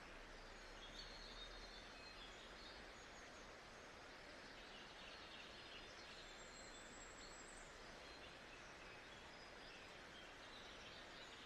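Quiet nature-sounds ambience track: a steady hiss with faint bird chirps scattered through it, most noticeable about a second in, in the middle, and near the end.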